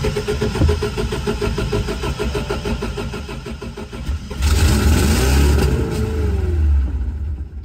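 Toyota 22RE 2.4-litre four-cylinder engine cranking on its starter, with even beats about six times a second, then catching about four seconds in and revving up and back down. The engine will run on starter fluid but, the owner suspects, its fuel injectors aren't being told to fire.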